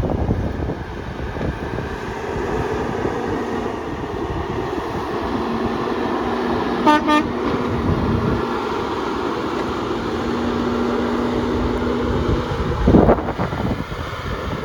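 Steady outdoor noise with a vehicle horn giving two short toots about halfway through, over a low steady drone, and a single loud thump near the end.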